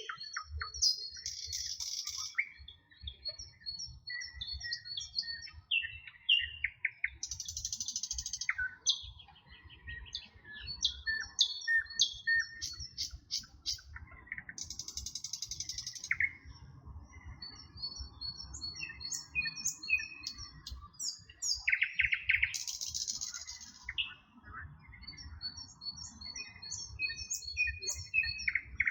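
Several songbirds singing and chirping together, with overlapping short whistled notes, quick repeated chirp series and buzzy trills, over a low rumble.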